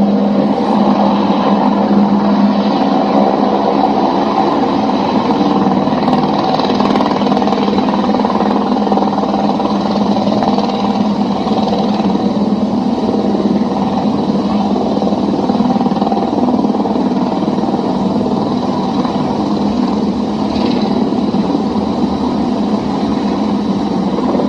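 Helicopter running steadily: a constant engine drone with a low, even hum and a faint high whine.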